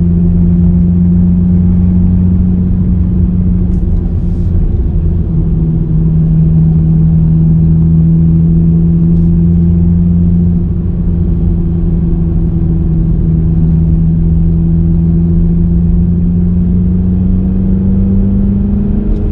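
Suzuki Swift Sport ZC33S's 1.4-litre turbocharged four-cylinder engine droning steadily under load, heard from inside the cabin over low road rumble. The engine note eases slightly about ten seconds in, then climbs in pitch near the end as the car accelerates.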